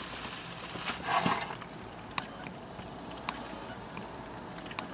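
Eating and handling of mussels: a brief rustle about a second in, then a few sharp, light clicks spaced about a second apart.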